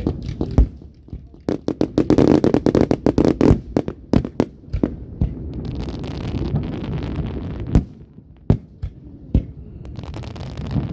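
Fireworks going off: scattered sharp bangs, with a rapid string of bangs and crackles about one and a half seconds in lasting about two seconds, then a stretch of hissing crackle.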